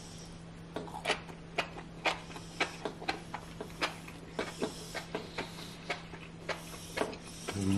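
Close-up chewing of enoki mushrooms: sharp, irregular clicks from the chewy mushrooms, about two or three a second.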